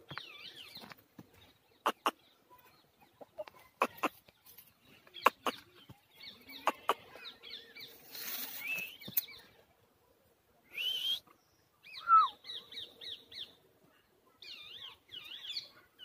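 Faint, quick, high chirps from small birds, in short repeating runs, with single rising and falling calls near the middle. Sharp clicks come in pairs every second or two during the first half.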